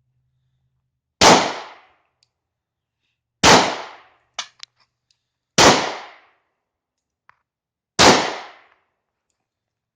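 German P.08 Luger pistol firing four 9mm shots, spaced about two seconds apart, each trailing off over about half a second. Two faint clicks follow the second shot.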